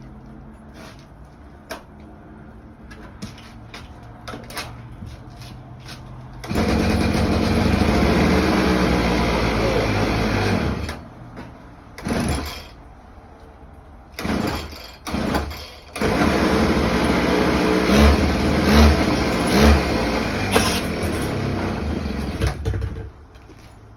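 43cc gas scooter's small two-stroke engine cold-starting. After a few faint clicks it catches about six seconds in and runs for about four seconds, dies, sputters briefly twice, then restarts and runs for about seven seconds with three quick revs before shutting off near the end.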